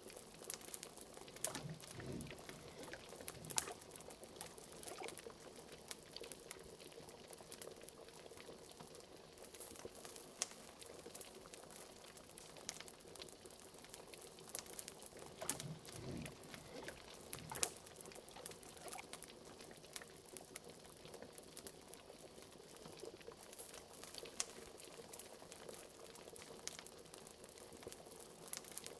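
Liquid bubbling steadily at a boil in a pot standing in for a cauldron, with frequent small pops and crackles scattered throughout and an occasional low bloop.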